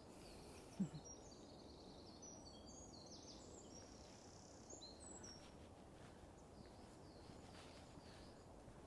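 Small songbird singing faintly, a quick high warbling phrase lasting about five seconds, over a steady low outdoor background noise.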